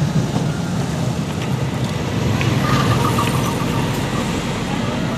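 Passenger train coaches passing underneath, a steady low rumble of wheels running on the rails.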